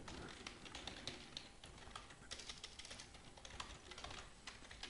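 Faint, irregular typing on a computer keyboard: a run of quick key clicks.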